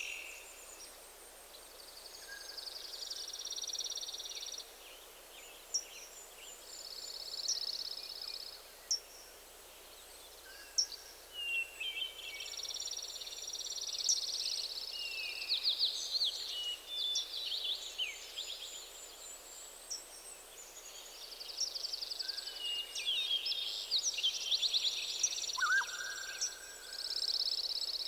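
Several songbirds singing, with overlapping trills and rapid phrases, some high and repeated, and a few brief lower whistled notes, over a faint steady forest background.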